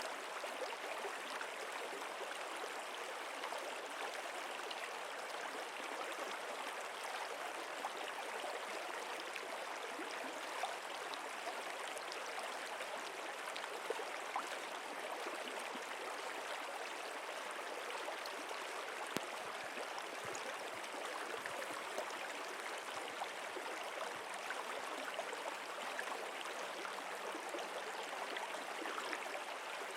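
A stream of flowing water runs steadily with no let-up, speckled with small splashes and trickles.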